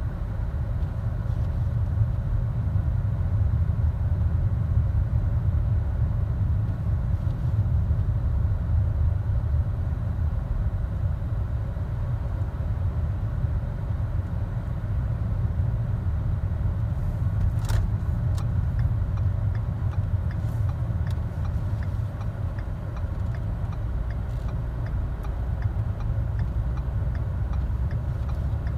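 Steady low rumble of road noise heard inside a moving car's cabin, from Michelin CrossClimate 2 all-season tires running on a wet, snowy highway, with a few faint clicks.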